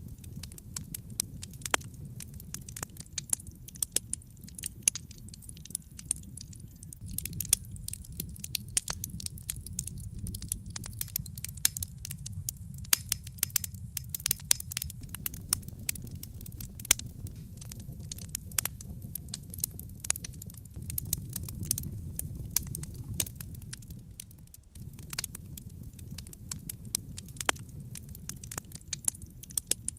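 Wood fire in a fireplace crackling: frequent irregular sharp pops and snaps over a low steady rush of the flames.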